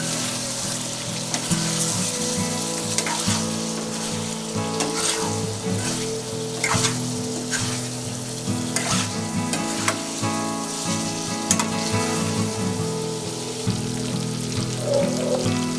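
Food sizzling as it fries in hot oil in a pan, with a spatula stirring and scraping against the pan again and again.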